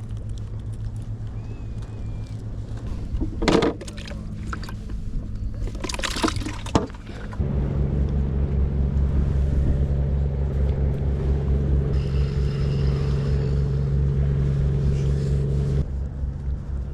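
A motor engine running steadily with a low hum. It gets noticeably louder about halfway through and eases off near the end. Two short bursts of rustling or splashing noise come in the first half.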